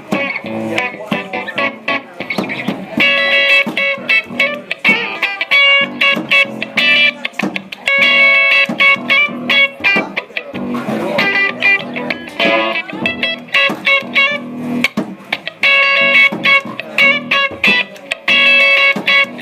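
Instrumental guitar music: plucked notes in a funky riff that repeats every few seconds, with no singing.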